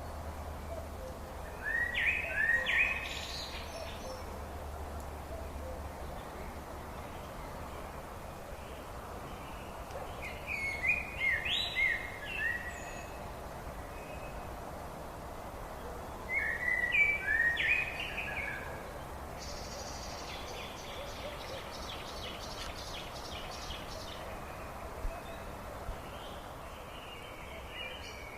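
A songbird singing short phrases of quick notes, three times, each phrase lasting about two seconds, over a steady background hiss. Between the later phrases a fainter, higher rapid trill runs for several seconds.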